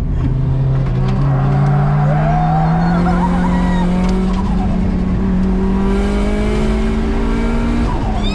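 Drift car's engine heard from inside the cabin, running hard under load, its note climbing slowly over several seconds, with tyres squealing as the car slides.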